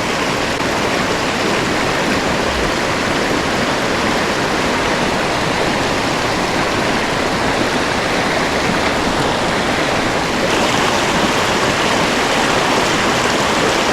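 Creek water rushing over rocks, a steady loud rush that turns a little brighter about ten seconds in.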